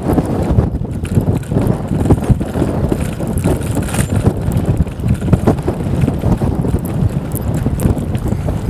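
Strong wind buffeting the microphone on a moving bicycle: a loud, low rumble that rises and falls in gusts, with scattered small clicks.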